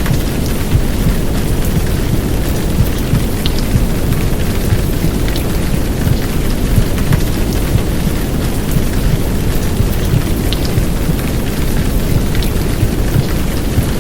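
Heavy downpour rain, a steady rush with scattered drop ticks, over a low rumbling womb sound of the kind played to settle babies.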